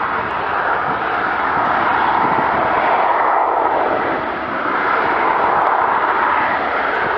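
Eurofighter Typhoon's twin EJ200 turbofan jet engines, a loud, continuous jet roar whose tone sweeps slowly up and down as the aircraft moves.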